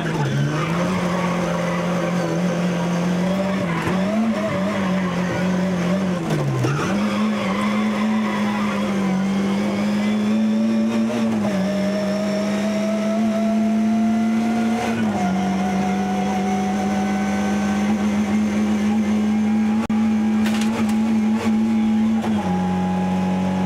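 Rally car's engine at hard throttle, heard from inside the cabin. Its pitch dips and climbs back a few times in the first seven seconds as the driver lifts for bends. It then runs high and steady with three short drops, about halfway, at two-thirds and near the end.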